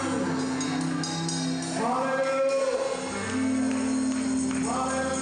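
Gospel music: a singing voice over long held chords, with a shaking tambourine.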